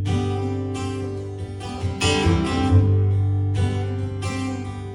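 Acoustic guitar strummed, an instrumental break between sung verses of a country song.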